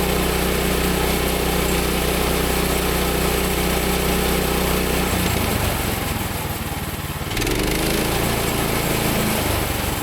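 Small gasoline engine of a newly assembled Woodland Mills HM130 MAX sawmill running steadily on its first start, its sound changing about halfway through with a brief dip in level.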